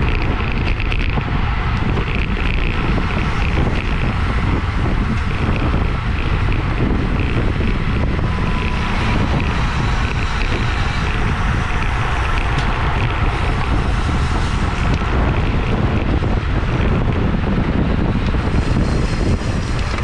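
Wind rushing over the microphone of a racing bicycle's camera at race speed: a steady, loud rush, heaviest in the low end.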